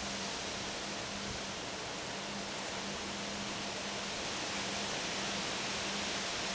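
Wind blowing, a steady, even rush that swells slightly near the end. A faint low hum comes and goes under it.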